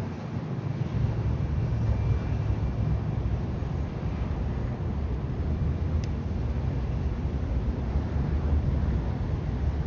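Steady low outdoor rumble with wind buffeting the microphone, with a single faint click about six seconds in.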